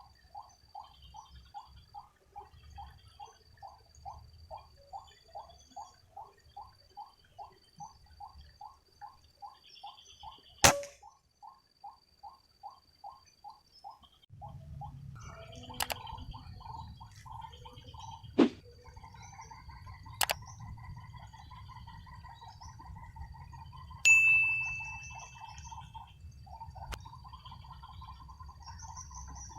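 A steady repeated call, about two a second, stops about 14 seconds in. Over it, a PCP air rifle fires a single sharp shot about 11 seconds in. Later there are several more sharp cracks and a loud metallic ring about 24 seconds in.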